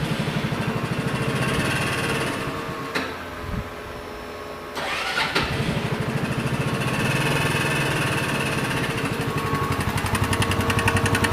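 Empire Outlook scooter's four-stroke engine started on its electric starter, running about three seconds and stopping, then starting again about five seconds in and idling with a rhythmic knock that grows sharper near the end. The knock appeared after the engine ran out of oil and is taken for rod knock, though the mechanic doubts it.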